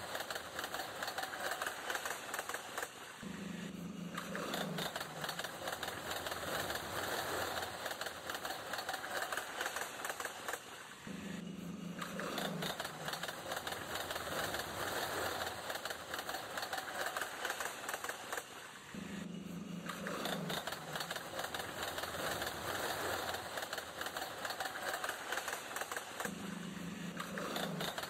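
Train sound effect: a steady, rapid clatter of wheels on rails, with a short low sound coming back about every eight seconds.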